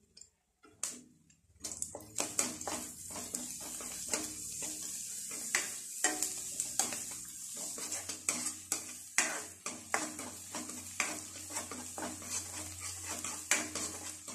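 Chopped onions and ginger-garlic paste sizzling in oil in a nonstick kadai while a spatula stirs them, scraping and tapping against the pan. Nearly silent for about the first second and a half, then the sizzle and stirring start.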